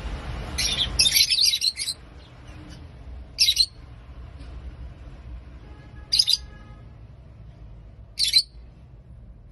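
Lovebirds chirping: a quick run of sharp, high chirps in the first two seconds, then single chirps about every two to three seconds.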